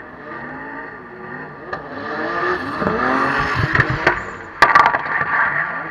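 Drift car engine revving hard, its pitch rising and falling, building to its loudest in the middle, with a few sharp cracks about four and a half seconds in.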